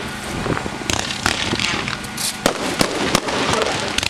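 Winda Pyro Performer firework going off: an irregular run of sharp bangs from shots launching and bursting, about two a second, over a steady hiss and crackle.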